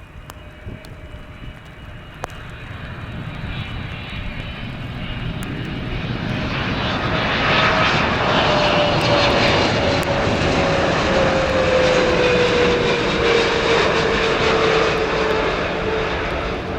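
Jet airliner's engines passing close by, the roar building over several seconds and then holding loud, with a steady engine whine that slides slowly down in pitch as the plane goes past.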